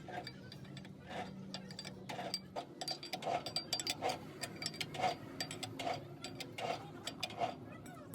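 Light knocks on metal, roughly one a second, over many faint clicks, with a low steady hum beneath.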